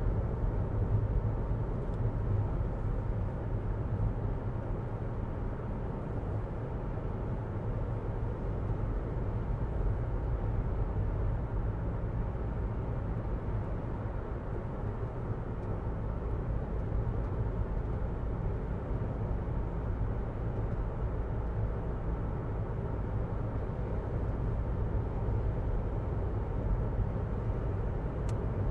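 Road and wind noise inside the cabin of a 2022 Jeep Renegade Latitude driving at speed: a steady low rumble of tyres on pavement, with the air-conditioning fan running on low.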